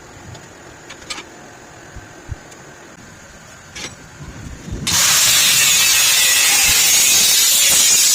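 Angle grinder cutting into a motorcycle silencer pipe: a few light knocks of the pipe being handled, then about five seconds in a loud, steady, hissing grind starts suddenly and runs on.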